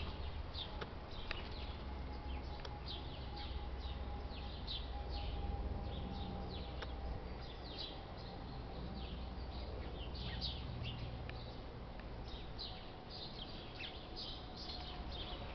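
Many small birds chirping, with short, rapid calls overlapping throughout, over a steady low background rumble.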